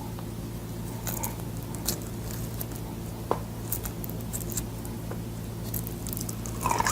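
Steady low hum with a few scattered faint clicks and soft taps. Near the end a bite of boiled sword bean starts, with crunchy chewing.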